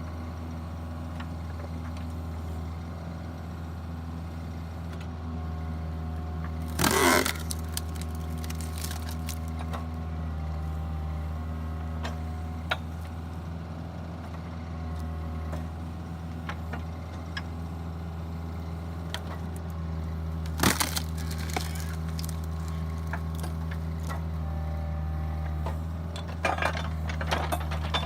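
Split-Fire 4409 hydraulic wood splitter running with a steady hum, with loud cracks of logs splitting apart about 7 seconds in and again about 21 seconds in. A cluster of cracks and knocks comes near the end.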